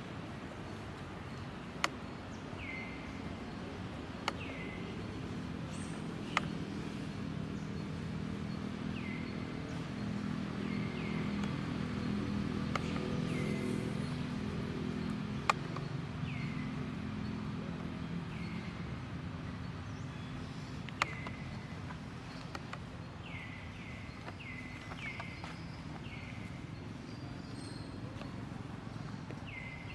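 Short chirping animal calls that drop in pitch, repeated every second or two and coming faster near the end, over a low steady rumble that swells in the middle. A few sharp clicks stand out.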